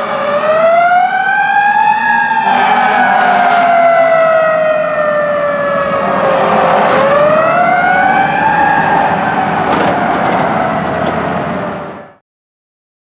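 Fire engine siren wailing, its pitch sweeping slowly up, then down over several seconds, then up again, over the rumble of the passing truck. The sound cuts off suddenly near the end.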